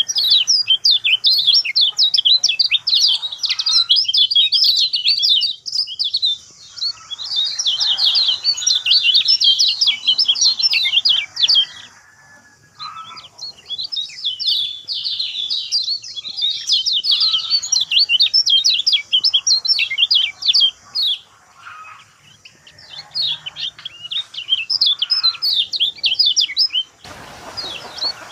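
Lemon-bellied white-eyes (kecial kuning) singing a rapid, high twittering song in dense phrases of a few seconds, with short pauses between them.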